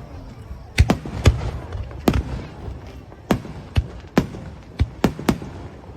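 Fireworks bursting: about ten sharp bangs at uneven intervals, some coming in quick pairs.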